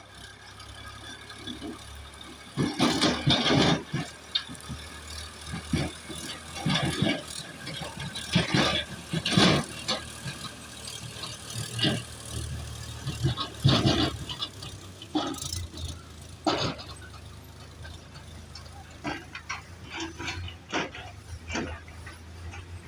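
Tractor engine running with a steady low hum, while irregular loud bursts of noise, rattles or knocks, come and go over it.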